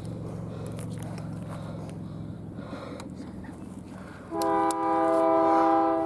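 Diesel train locomotive rumbling, then about four seconds in its air horn sounds a chord of several tones: a short blast followed straight away by a longer one.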